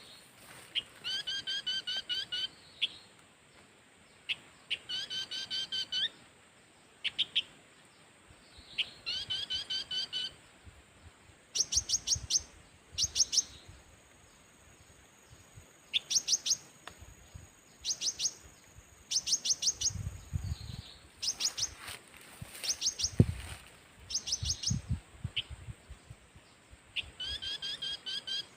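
Bird-like chirping calls repeated in short phrases of rapid notes, two kinds of phrase alternating with gaps of a second or two. A few low thumps come about two-thirds of the way through.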